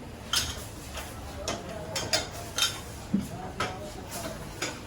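Irregular metallic clinks and taps of hand tools against metal gearbox parts, about eight over a few seconds.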